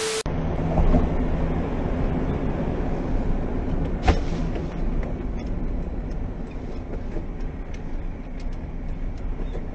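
Motor vehicle running: a steady low engine hum under road rumble, with one sharp click about four seconds in.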